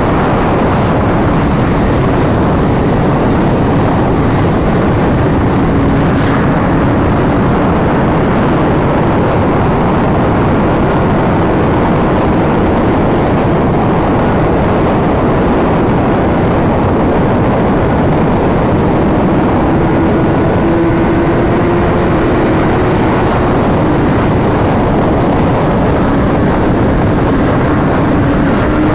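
Steady rush of wind and road noise over a helmet-mounted microphone on a moving sport motorcycle, with the bike's engine tone faintly rising and falling underneath.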